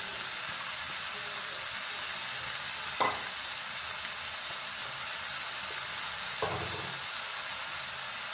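Chopped onion and tomato sizzling in a nonstick frying pan, a steady hiss, with two brief knocks about three seconds and six and a half seconds in.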